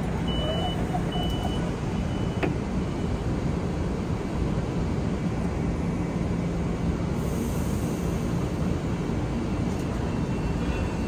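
Steady rumble of a train at the station, with a faint low hum. A repeated high beep ends about a second and a half in, and there is a single click a little later.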